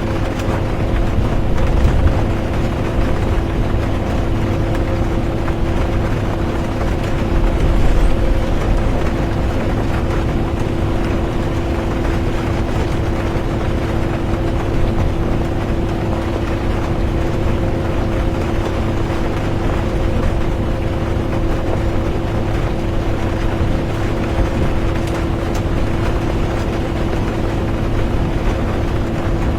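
Interior of a moving bus: a steady low engine drone with a constant hum and road rumble under an even hiss of rain. The rumble swells briefly twice, about two and eight seconds in.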